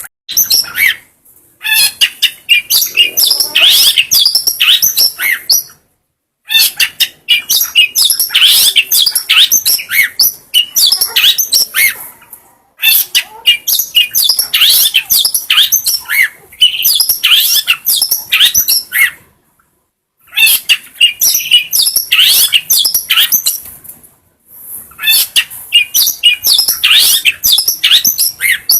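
Long-tailed shrike (cendet) singing: rapid, varied chattering and chirping phrases in runs of a few seconds each, with brief silent breaks between the runs, five times over.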